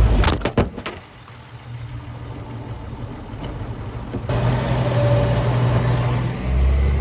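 M35 truck's engine running while it is driven, a steady low drone. A few sharp knocks or clunks sound about half a second in, and the drone jumps back up louder about four seconds in.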